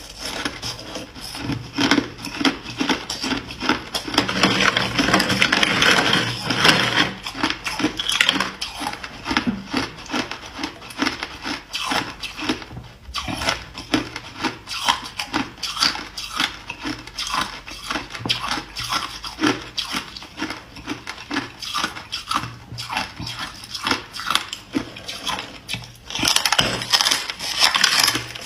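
Hard clear ice being bitten and chewed close up: a fast, irregular run of cracks and crunches, thickest a few seconds in and again near the end.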